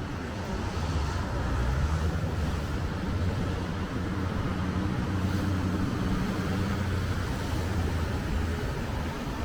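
City street traffic, with a motor vehicle's engine running close by for several seconds, a steady low hum over general road noise.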